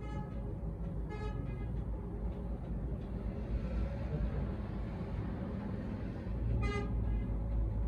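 Three short vehicle horn honks, at the start, about a second in and near the end, over a steady low rumble.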